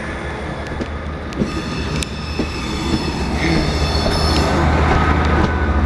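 A pair of GWR Class 158 diesel multiple units moving past close by. There is a steady low engine drone and a few wheel clicks over the rail joints, and a high wheel squeal comes in about two seconds in while the sound slowly gets louder.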